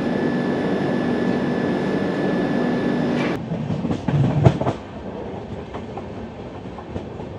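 Double-decker express coach running, heard from its open door: at first a steady running noise with a hum in it, then, after a sudden change, a few heavy clunks of the wheels over the track. After the clunks comes a quieter rolling rumble with light clicks.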